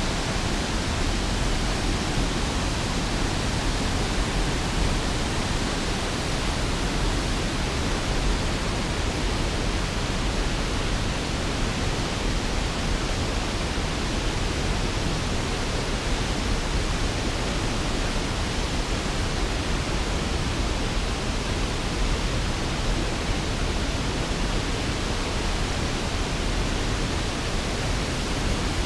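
A large waterfall with a heavy flow of water, a steady, even rush of falling water that does not change.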